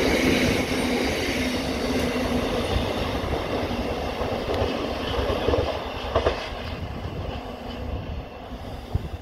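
Freight train of bogie oil tank wagons rolling past on the rails, the wheel and running noise fading steadily as the tail of the train draws away, with a few short knocks later on.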